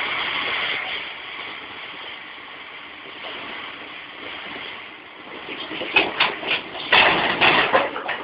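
A truck's engine running as a steady noise, then from about six seconds in a string of irregular knocks and bangs.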